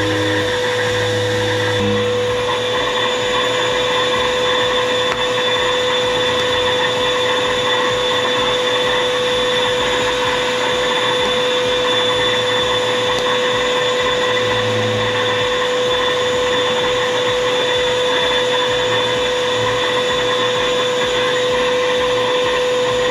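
GULIGULI pet grooming vacuum running in vacuum mode: a steady motor whine at an unchanging pitch, with a high tone over a rush of air.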